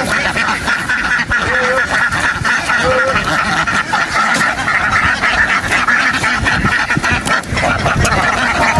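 A flock of ducks quacking together in a dense, continuous chorus.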